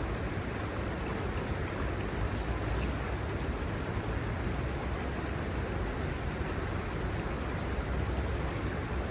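River water flowing steadily over shallows, an even rushing with a low rumble underneath.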